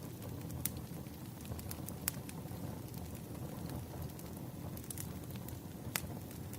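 Burning firewood crackling: a steady low rumble of flames with sharp pops scattered through it, the loudest about six seconds in.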